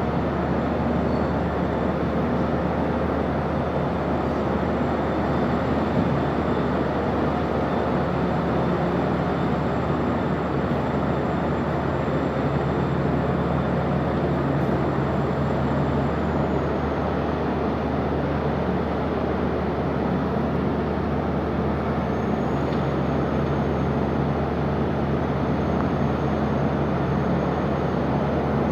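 Steady low mechanical drone of a ship's engine running, with several low hum tones and a faint high whine that hold steady.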